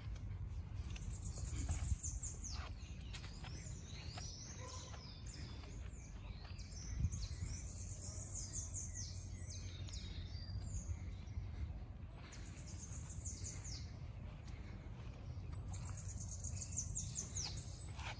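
Songbirds singing in repeated phrases of fast, high chirps, over a steady low background rumble, with two brief bumps.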